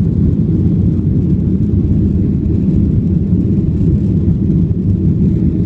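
Passenger airliner taking off: a steady, loud low rumble of engines and rushing air.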